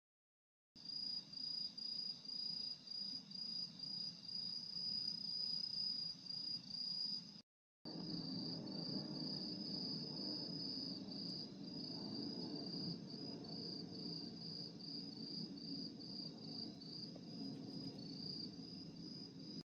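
Crickets chirping at night: a high-pitched trill in rapid, evenly repeating pulses, with a steady low noise underneath. The sound drops out briefly about seven and a half seconds in, then carries on.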